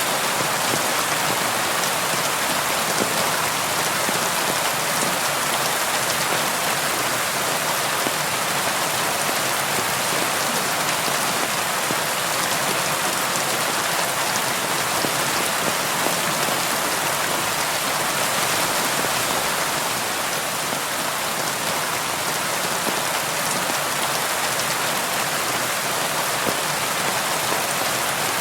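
Steady rain falling, with a dense patter of drops hitting window glass.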